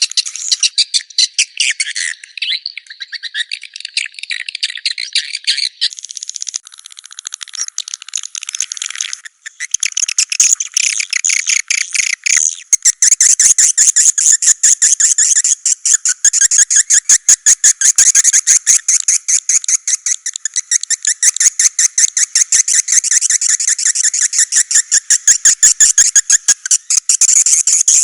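Recorded swiftlet calls of the kind played in swiftlet houses to draw the birds in: fast, high chattering and twittering that turns into a dense run of quick, sharp clicks a little before halfway.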